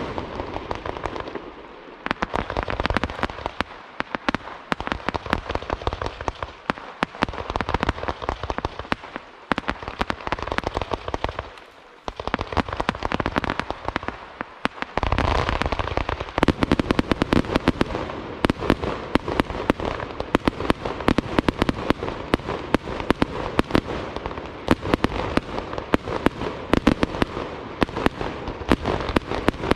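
Aerial fireworks display by Itria Fireworks: a rapid, dense string of bangs and crackles. About halfway through there is a deep boom, after which the reports come thicker and louder in a near-continuous barrage.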